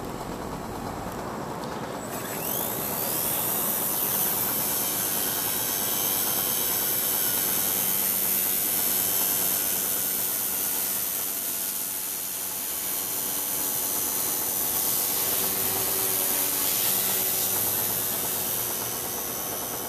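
A Blade mCP X BL micro RC helicopter's brushless motors and rotor spool up with a rising whine about two seconds in. It then holds a steady high whine and rotor buzz in flight, swelling and easing with the throttle.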